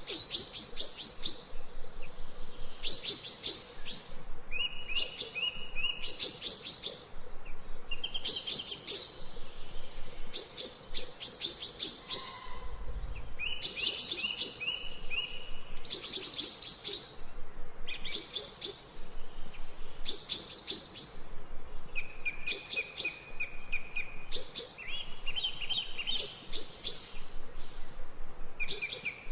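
Songbirds chirping: short, quick trilled phrases repeated every second or two, one after another.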